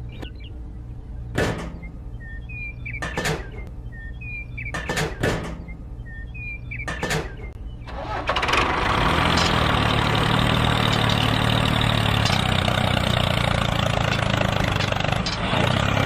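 A few sharp clicks with small squeaks, then about halfway through a small motor starts up and runs steadily and loudly, driving a homemade mini tractor.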